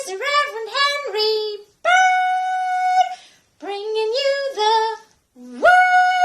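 A high-pitched voice singing a short phrase twice: a few quick stepping notes, then one long held note each time.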